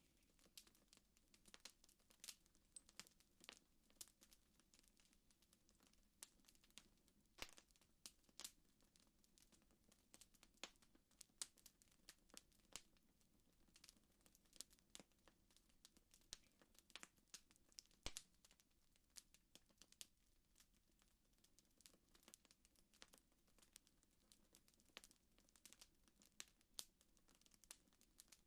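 Faint campfire crackling: irregular sharp pops and snaps of burning wood, several a second, over a low hiss.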